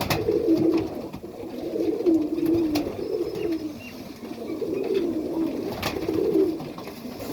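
Serbian highflyer pigeons cooing, one low wavering coo after another, with a few sharp clicks in between.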